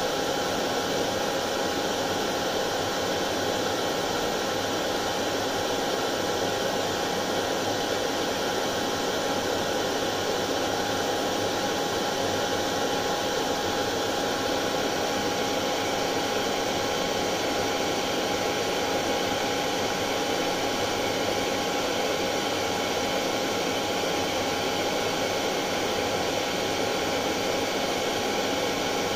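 Hair dryer running steadily: an even blowing rush with a steady whine from its motor throughout.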